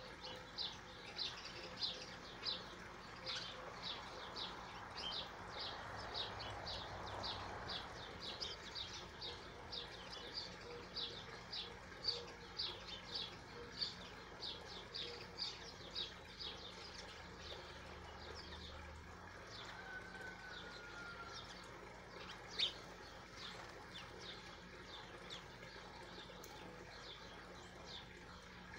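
A bird chirping over and over in short high chirps, about two to three a second, growing sparser in the second half.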